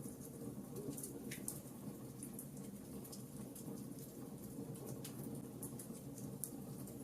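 Wood fire crackling steadily, with frequent small sharp pops and snaps over a low, even rumble.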